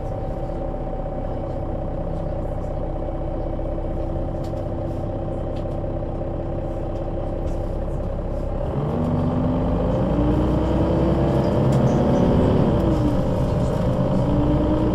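Diesel engine of a Solaris Urbino 12 III city bus idling steadily, then pulling away and accelerating about eight and a half seconds in, growing louder. The note rises, drops briefly near the end as the Voith automatic gearbox shifts up, and rises again.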